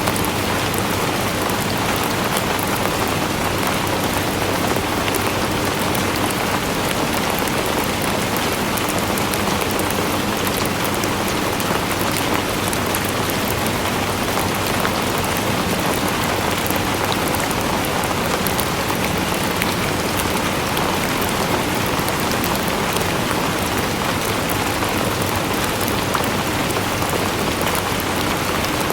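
Steady rain falling on a surface, a dense even hiss with scattered fine drop ticks and no pauses.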